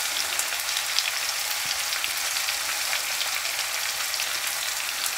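Onions and vegetables frying in oil in a pan with soy sauce and vinegar just added: a steady sizzle with scattered small crackling ticks.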